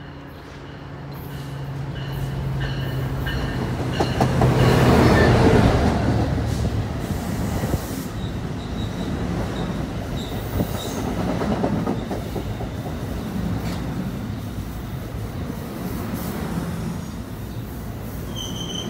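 A locomotive-hauled commuter train with double-deck coaches passes close alongside a station platform. The locomotive's low steady hum builds to its loudest as it goes by, about five seconds in. The coaches then roll past with a steady rumble, wheel clicks and thin high wheel squeals.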